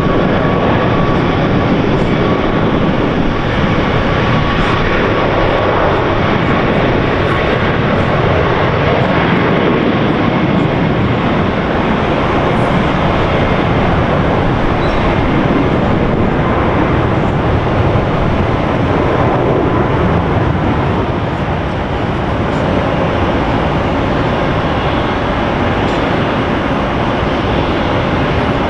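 Jet airliner engines running loud and steady, a dense rushing noise with a faint whining tone over it at the start.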